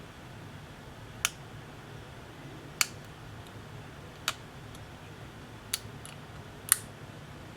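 Sharp small clicks, five of them about a second and a half apart with the last the loudest, from hand tools working on a tablet's parts during repair, over a faint steady hum.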